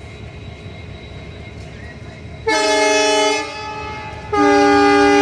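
Train horn sounding two long blasts, the second longer, over the steady rumble of a moving train.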